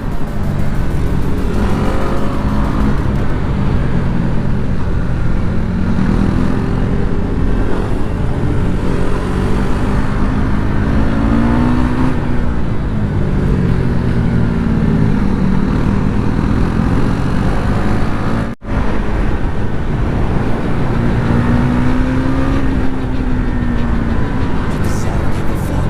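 Motorcycle engine running under way, its pitch rising and falling repeatedly as the bike speeds up and slows, with a rush of wind noise. The sound cuts out for an instant about two-thirds of the way through.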